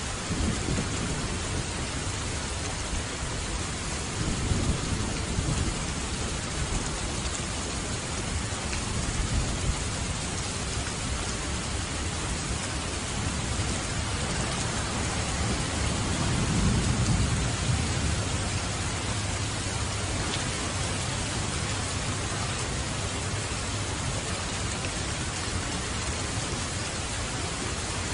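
Steady heavy rain falling on surfaces, with low rolls of thunder rumbling under it; the longest and loudest roll comes a little past halfway.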